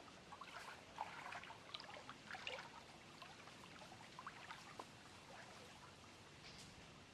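Faint lake water lapping and trickling at the shore, a patter of small splashes and gurgles that comes in clusters, busiest in the first half.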